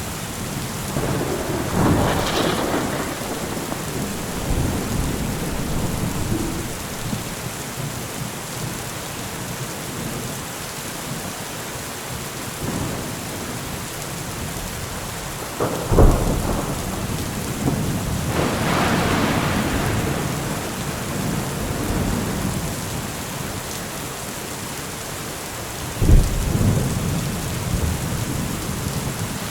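Steady heavy rain with thunder: rolling rumbles swell about two seconds in and again near twenty seconds, and two sharp close cracks come at about sixteen and twenty-six seconds.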